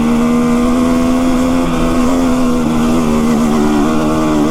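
Two-stroke dirt bike engine pulling in third gear at steady, fairly high revs, climbing a hill under load. The pitch holds almost level, sagging slightly near the end.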